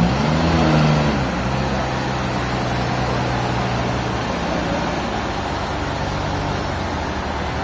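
A large engine running, its pitch rising and falling in the first second or so, then holding steady.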